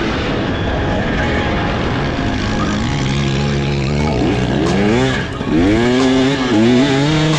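KTM 300SX two-stroke dirt bike engine under riding load on a motocross track, revving in repeated sharp rising pulls with steadier stretches in between, over a constant rushing noise.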